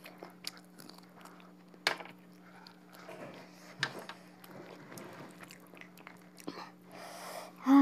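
Close-up eating sounds of a person chewing rice and duck curry eaten by hand: soft wet chewing, lip smacks and small mouth clicks, with one sharper click about two seconds in.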